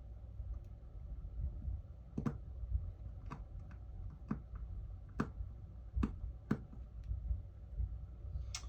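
Small sharp clicks and taps, about seven of them at irregular spacing, from handling a phone's parts and small tools during reassembly, over a steady low rumble.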